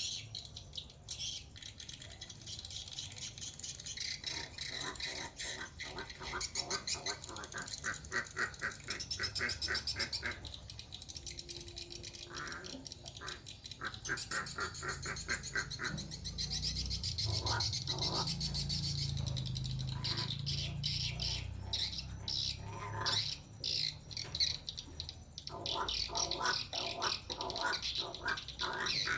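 Pet crow calling: harsh squawks and trains of rapid rattling clicks, repeated throughout.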